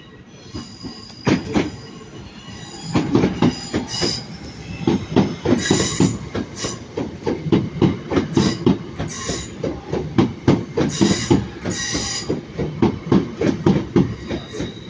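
Pair of Class 323 electric multiple units moving through the station, their wheels clicking rapidly over rail joints and pointwork, the clatter getting denser from about three seconds in. High wheel squeal comes and goes over the clatter.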